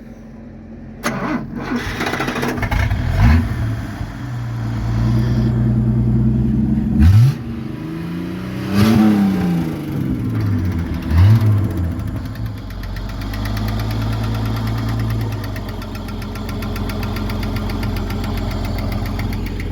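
Chevrolet Caravan's six-cylinder inline engine blipped hard several times, each rev rising and falling quickly, then settling to a steady idle. Under the hard revving it gives a light knock, which turned out to be a hydraulic lifter that was not getting oil.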